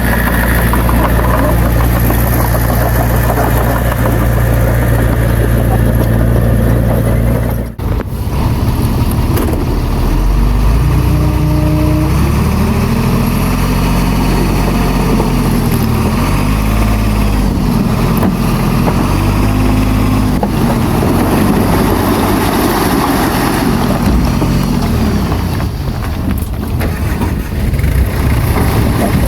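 Heavy diesel engine of an earthmoving machine running loud and steady, then after a brief break about eight seconds in, its engine speed rising and falling over and over.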